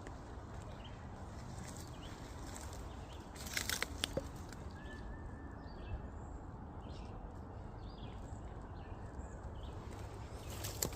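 Woodland ambience: faint, scattered bird chirps over a steady low rumble, with a short cluster of sharp clicks about three and a half seconds in and another near the end.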